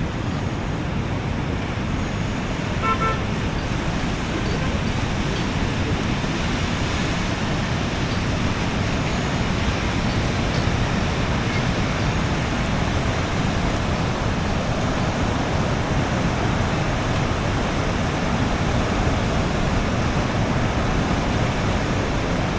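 Steady outdoor wash of road traffic noise, with one short car horn toot about three seconds in.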